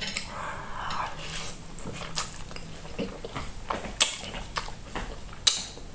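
Close-miked eating sounds: wet chewing and lip smacks with scattered sharp clicks.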